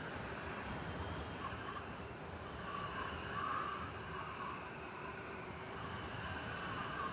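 City blizzard ambience: steady wind noise over a low rumble of distant traffic, swelling briefly a little past the middle.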